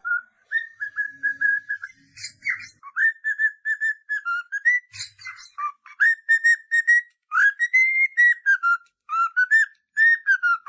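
Pet parrot whistling a tune: runs of short, clear whistled notes, about three or four a second, stepping up and down in pitch, with a few brief scratchy chirps between phrases.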